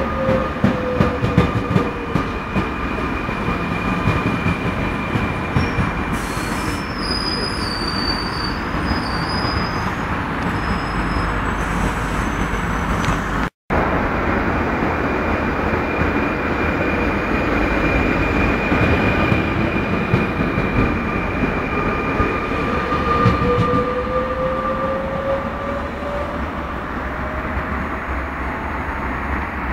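Red double-deck electric multiple unit running through a station: a heavy rumble of wheels and carriages on the rails, with an electric whine that falls in pitch in the first two seconds. The sound cuts out for a moment about halfway through, and near the end the whine rises in pitch as the train pulls away.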